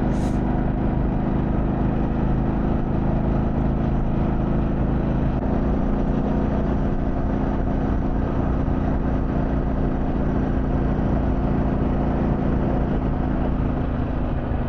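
2024 Harley-Davidson Pan America Special's Revolution Max 1250 V-twin running steadily under way, over a steady hiss of wind and road noise. The engine note shifts about five seconds in.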